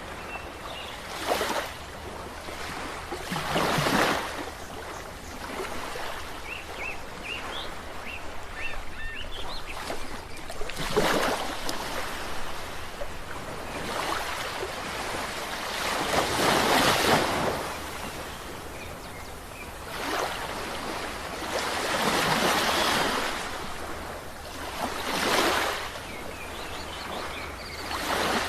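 Sea waves breaking on a shore. Each wave comes as a rush of noise that swells and fades, about every three to six seconds, over a steady wash of surf.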